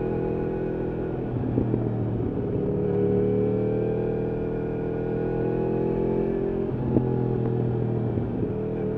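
Yamaha R1 RN22's crossplane inline-four through an Akrapovič exhaust, running under way. The engine note shifts abruptly in pitch about a second and a half in and again near seven seconds, the second change marked by a sharp crack.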